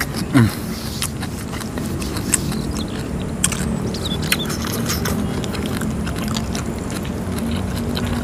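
A person chewing crunchy food close to the microphone, with a few sharp crunches scattered through, over a steady low hum.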